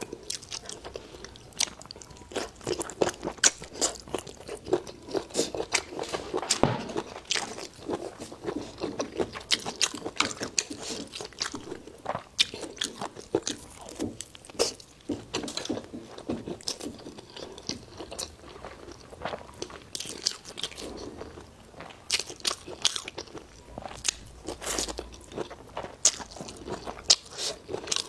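A person biting and chewing food close to the microphone: many quick, irregular crunchy clicks.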